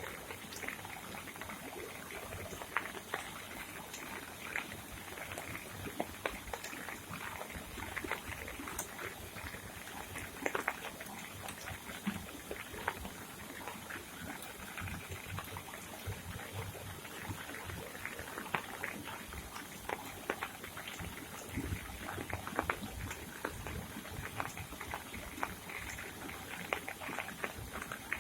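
Rain falling steadily, with a constant hiss and many irregular drips and splashes of rainwater.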